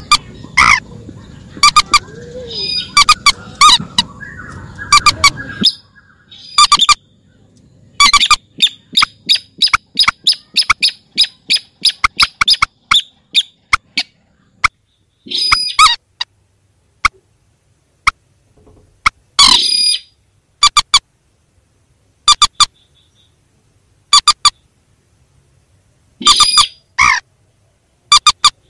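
Calls of mandar and sintar rails: sharp, repeated call notes, with a fast run of many short notes in the middle, then spaced single calls and a few longer, harsher calls. A low rumble of background noise lies under the first few seconds.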